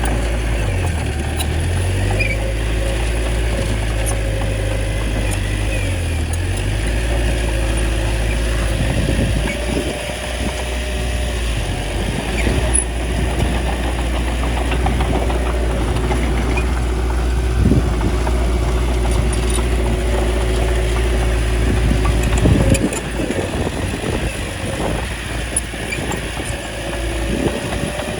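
Small bulldozer's diesel engine running steadily under load, with a few short knocks about two-thirds of the way in.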